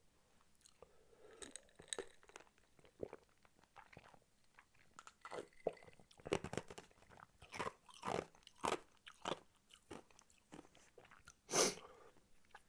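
A person chewing and biting spicy tteokbokki close to the microphone: irregular bites and chews, busier in the second half, with one louder bite near the end.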